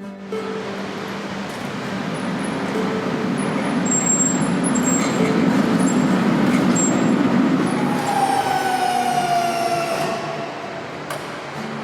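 Airbus H125 Écureuil single-engine turbine helicopter flying past: rotor and engine noise swells and then fades, with the turbine whine falling in pitch about eight seconds in as it goes by. A rising whine starts near the end.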